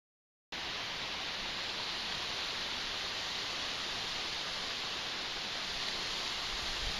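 A steady, even rushing hiss that starts abruptly about half a second in, after digital silence.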